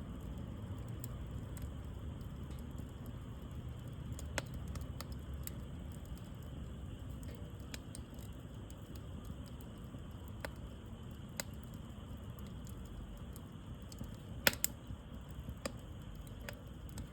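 Wood fire crackling: scattered sharp pops and snaps over a low steady rumble, the loudest pair of pops about two-thirds of the way through.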